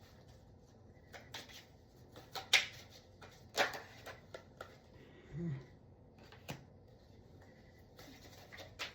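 Tarot cards being handled and shuffled: scattered, irregular soft slaps and clicks of the cards, with a brief low murmur from the reader about halfway through.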